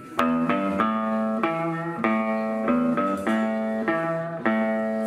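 Electric guitar playing a repeating rockabilly riff as the intro of a song, starting abruptly with nothing else prominent behind it.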